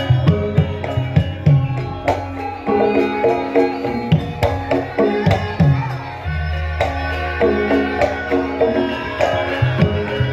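Javanese gamelan music for a lengger dance: a kendhang hand drum beats a busy rhythm over ringing bronze metallophones and gongs, with a deep gong stroke sounding about six seconds in.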